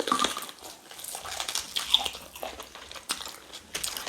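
Close-up eating sounds of cow tail in pepper soup: irregular wet chewing, sucking and lip-smacking with small clicks.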